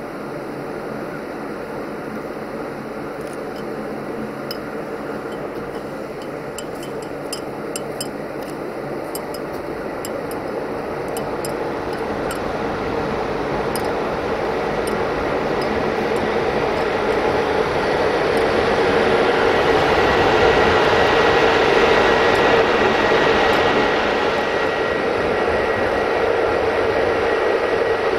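A train drawing near, its running noise and a steady hum growing slowly louder until near the end. Scattered light clicks sound in the first half.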